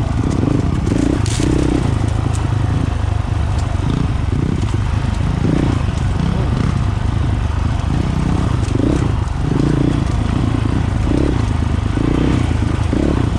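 Honda CRF450 dual-sport motorcycle's single-cylinder four-stroke engine running, its note swelling and easing unevenly.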